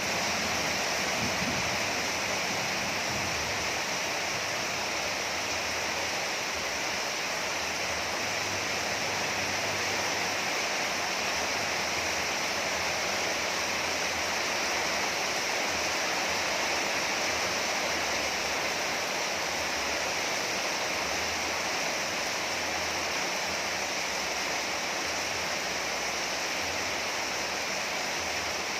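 Rain falling steadily on a yard: an even, unbroken hiss.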